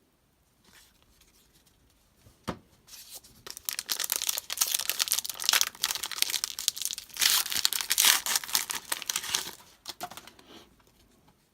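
Foil trading-card pack wrapper being torn open and crinkled by hand: a single click, then a dense run of crinkling and tearing from about three seconds in that fades out near the end.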